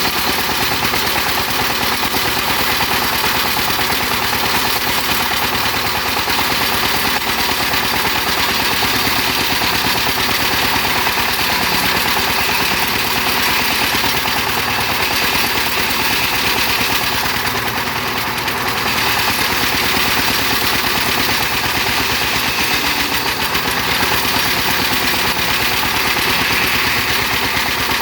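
Tractor engine running steadily with a rapid, even pulse, dipping slightly in level about eighteen seconds in.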